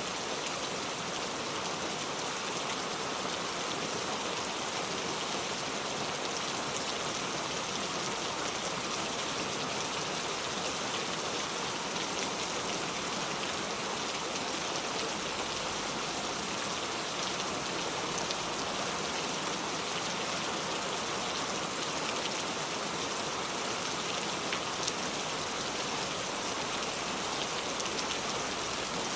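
Steady rain falling, with the fine patter of many individual drops and no change in strength.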